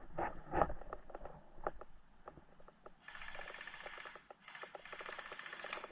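Airsoft electric gun (AEG) firing two full-auto bursts, each a little over a second long, starting about three seconds in. Before them there are scattered short knocks.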